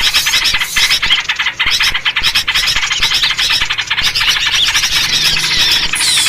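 A dense, noisy chorus of small birds chattering and chirping rapidly, led by yellow-vented bulbul (trucuk) calls: an agitated bird-lure call used to draw in wild songbirds.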